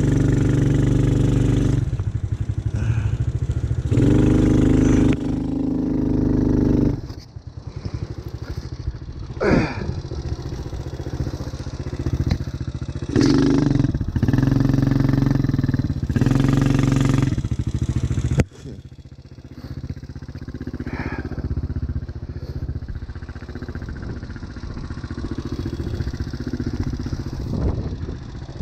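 ATV engine running under changing throttle as it is ridden, revving up in several bursts and dropping back sharply twice to a lower note.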